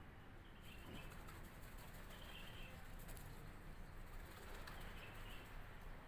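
Faint outdoor ambience with a few short, distant bird chirps.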